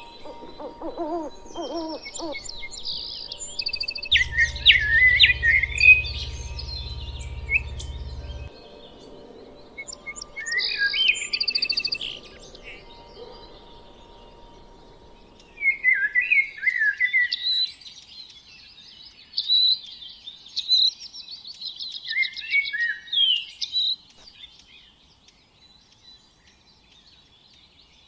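Small birds chirping and singing in repeated bursts of quick high notes, in clusters with short pauses between. In the first two seconds a low hooting call trails off underneath.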